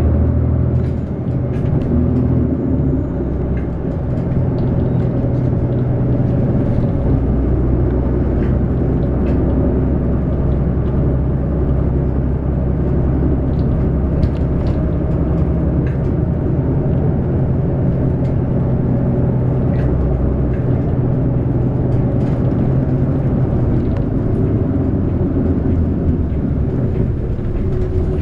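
City bus's diesel engine and drivetrain running with a steady low drone, heard from inside the passenger cabin, with a few faint clicks and rattles.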